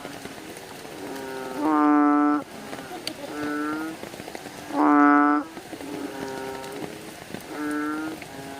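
Bullfrogs calling: two loud, drawn-out calls about three seconds apart, each under a second long, with quieter calls from other frogs between them over a steady background chorus.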